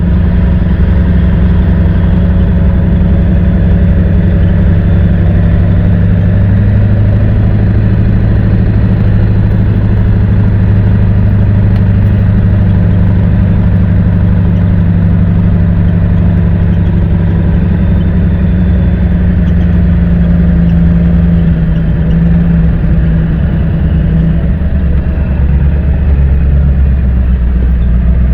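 A vehicle's engine running steadily as it is driven along at an even pace, heard from on board.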